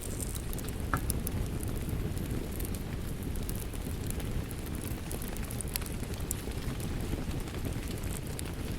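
Wood fire crackling, with irregular sharp pops and snaps, over a steady low rush of rain.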